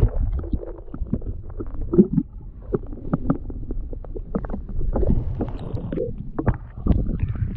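Canoe being paddled: irregular knocks and clicks of paddle and gear against the hull over a steady low rumble.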